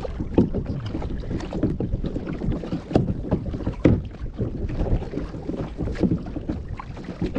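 Wind buffeting the microphone out on the water from a small boat, with water lapping and faint voices.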